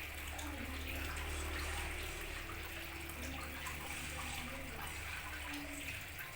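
Steady running or splashing water with a low hum underneath.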